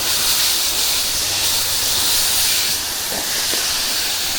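Pressure washer spray hitting a hard surface: a steady hiss of water, with the machine's low hum running underneath.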